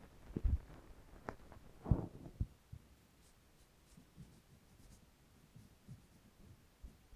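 Quiet close-up handling sounds: a few soft knocks and clicks in the first couple of seconds, then faint light scratching.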